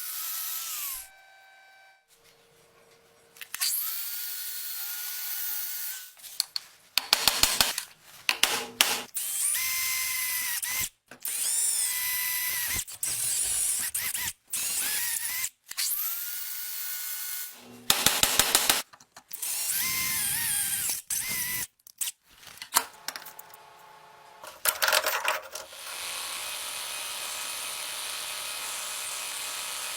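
Electric power tools in a string of short, abruptly cut bursts: a motor spins up with a rising whine and runs steady, again and again, with bursts of rapid clicking in between and a steadier, rougher run near the end.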